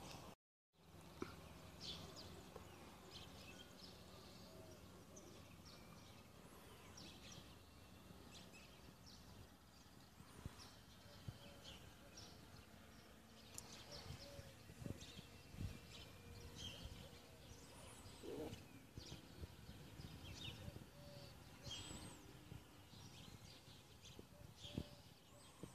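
Faint outdoor ambience with scattered short bird chirps every second or two. The sound cuts out completely for a moment about half a second in.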